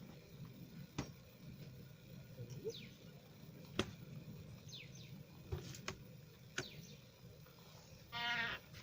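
Outdoor pond-side sounds: short falling whistled calls typical of birds and a few scattered sharp clicks. Near the end comes a harsh, wavering animal call.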